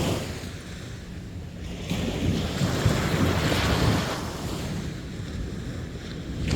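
Sea waves washing onto a beach. One wave surges in about two seconds in, swells and slowly falls away, and another breaks right at the end.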